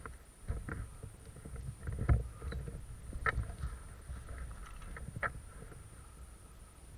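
Uneven low rumbling movement and handling noise with a few sharp knocks or clicks, the loudest about two seconds in, and others a little after three seconds and after five seconds, over a faint steady high whine.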